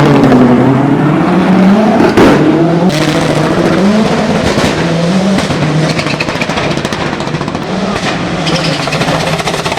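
Mitsubishi Lancer Evo VIII hill-climb prototype's engine at full throttle, its pitch climbing and dropping again and again as it shifts through the gears. A few sharp cracks come a couple of seconds in.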